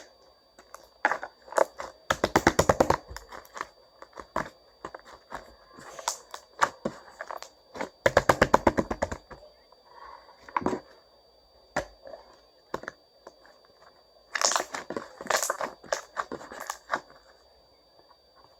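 Hardened slime and stretchy slime being kneaded and squeezed together by hand, in bursts of rapid crackling pops with softer squishes between; the sound dies away near the end.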